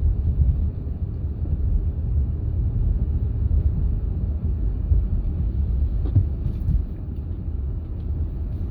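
Steady low rumble of road and engine noise inside a Honda Pilot SUV's cabin as it drives along a snow-covered road.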